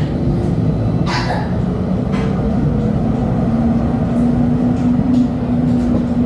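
LHB TW2000 Stadtbahn light-rail car running, a steady low rumble with a short hiss about a second in. A steady electric motor tone comes in about halfway through and holds.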